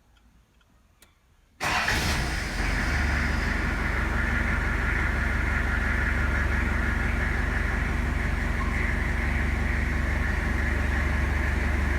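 Toyota Hilux pickup engine started about one and a half seconds in, catching at once and then idling steadily. A faint click comes just before the start.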